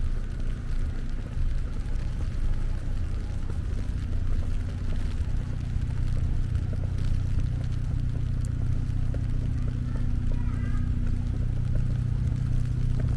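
Low, steady hum and rumble of a motor vehicle's engine running nearby, under street noise. A few faint, short high squeaks come about ten seconds in.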